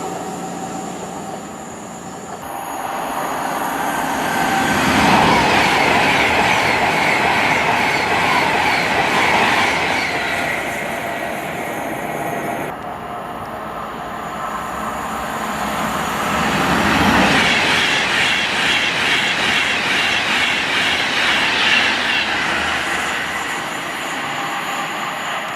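A train passing on the track, its wheel and rail noise building to a peak and then fading. Just before halfway there is a sudden cut, and a second train passes the same way.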